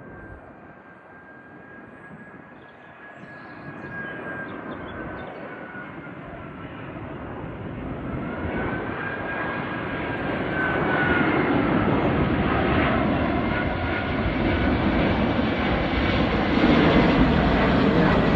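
Airbus A380's four jet engines growing steadily louder as the airliner draws closer, a rushing rumble with a thin whine that wavers up and down in pitch.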